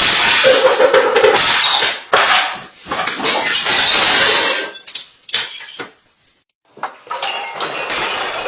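Loud clattering and banging of hard household objects, like pots and dishes being knocked about, for about five seconds. It breaks off into a moment of silence, then a quieter stretch with scattered knocks.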